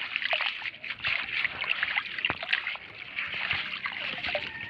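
River water splashing and trickling at the bank, with many small irregular clicks and crackles, as old plastic is pulled out of the wet riverside soil.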